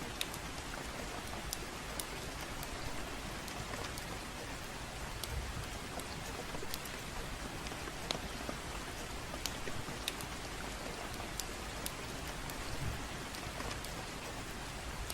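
Steady gentle rain, with the sharp crackles and pops of a wood fire scattered through it every second or so.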